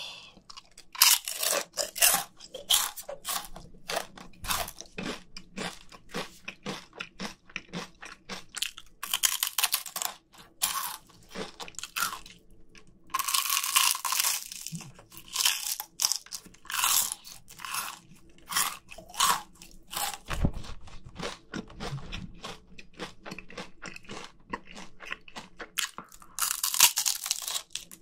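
Close-miked crunching and chewing of crispy KFC fried chicken skin, many sharp crackling bites, with heavier crunches about nine, thirteen and twenty-six seconds in.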